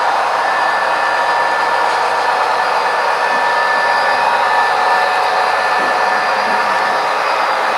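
Model train running on a layout: a steady whirring hiss with a few thin, constant whine tones and no deep bass.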